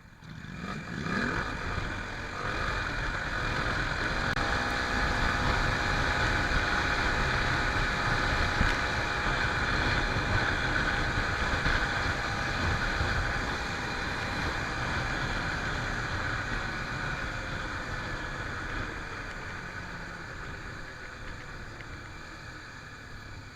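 Honda Tornado 250 single-cylinder four-stroke motorcycle engine, its pitch rising as it pulls away in the first couple of seconds. It then runs at a steady pitch, growing louder, and slowly fades over the second half.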